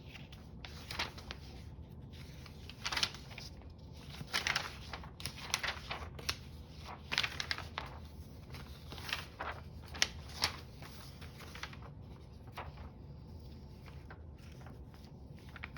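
Paper being handled and worked: irregular rustles and crinkles with sharper crackles scattered throughout, as a strip of craft paper is shaped by hand.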